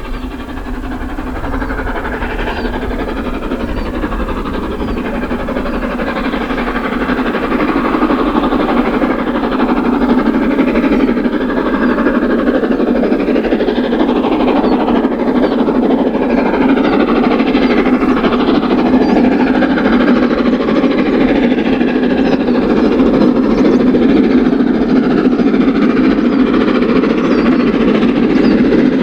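A steam-hauled passenger train, banked by a Class 47 diesel on the rear, running past on a climbing line. A steady, loud rumble builds over the first several seconds and then holds.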